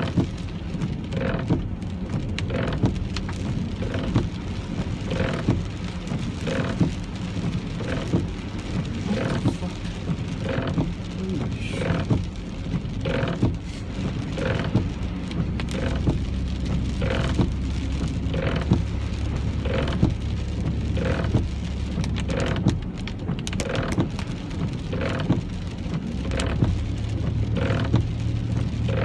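Inside a car driving in rain: the windshield wipers beat steadily, about one stroke every three-quarters of a second, over the low hum of the engine and tyres and the patter of rain on the car.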